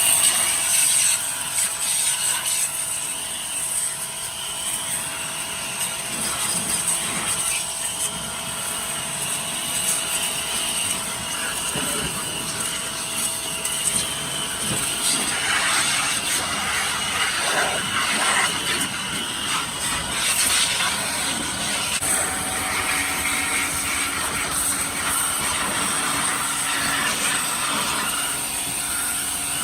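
Power tool running steadily on metal: a continuous grinding hiss that grows rougher and shifts for a while around the middle.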